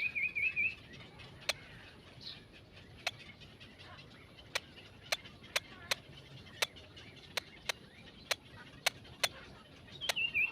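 A small bird gives a short wavering chirp at the start and again near the end, over irregular sharp clicks throughout.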